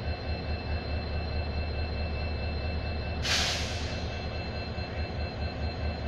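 Steady low hum of standing trains with a faint high steady whine. About three seconds in comes a short sharp hiss of compressed air let out from a train's air brakes.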